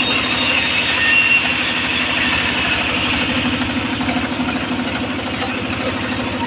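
Engine of a homemade circular sawmill running steadily, with a higher whine over it that fades after about three seconds.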